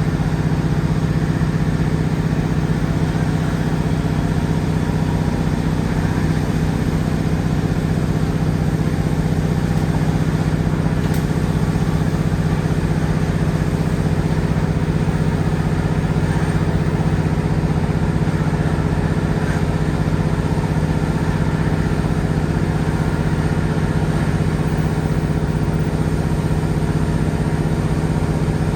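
Underfloor Cummins diesel engine of a Class 150 diesel multiple unit running steadily, its pitch holding constant.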